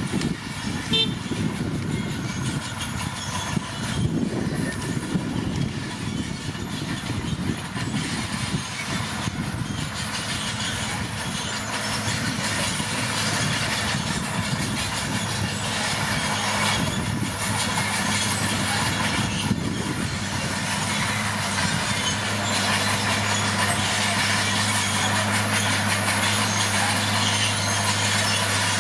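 Komatsu D41P crawler bulldozer's diesel engine running under work, with rough clanking from the tracks. About three-quarters of the way through it settles into a steadier low drone.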